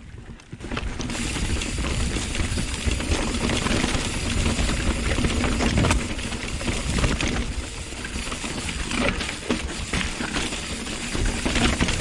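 Hardtail mountain bike riding down a rocky technical trail: tyres clattering over rocks and roots, the bike's chain and frame rattling, starting about a second in.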